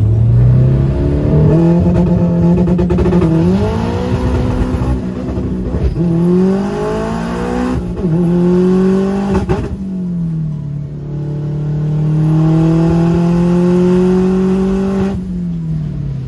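Race car engine at full throttle down a drag strip, its pitch climbing and dropping back at each of several gear changes, then a long pull before it falls away near the end as the car slows. The owner puts its popping down to the engine running lean on a nearly empty fuel tank.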